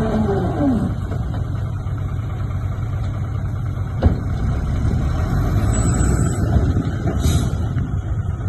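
Diesel engine of heavy earthmoving equipment running steadily, a low rumble with a single sharp knock about four seconds in. The tail of a falling music sting fades out in the first second.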